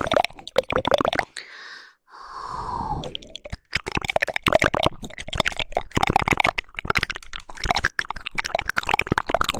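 Rapid, wet 'woodpecker' tongue clicks and mouth sounds. About a second in they are broken by a short breathy, hissing sound, then the fast clicking resumes.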